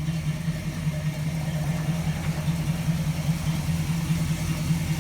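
A 1970 Chevrolet truck's engine idling steadily with an even, fast pulse.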